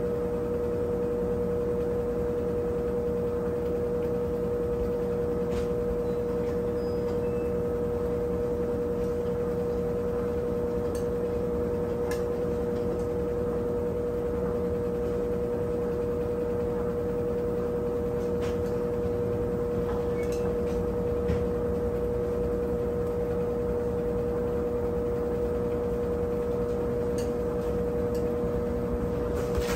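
Brastemp 17 kg washing machine running mid-cycle, giving a steady, unchanging motor hum with one strong even tone, and a few faint ticks here and there.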